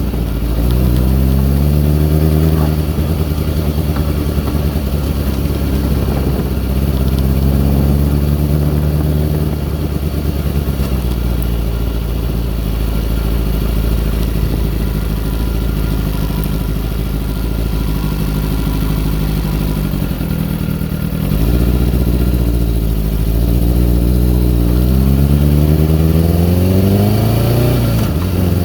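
2002 Kawasaki ZX-6R's carbureted inline-four running, its revs rising and falling several times with a steadier stretch in the middle. The owner hears a weird sound from it and suspects the carbs or fuel after the bike sat unused.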